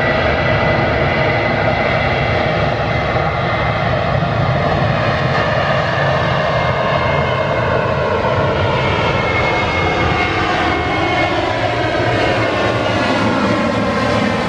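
Boeing 737-800's CFM56-7B turbofan engines at takeoff power as the airliner takes off. They make a loud, steady rush of jet noise with a high whine, and the sound's colour slowly shifts as the aircraft moves.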